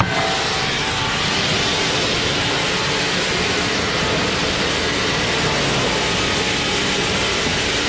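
Sawmill machinery running: a loud, steady, even noise with a faint underlying hum.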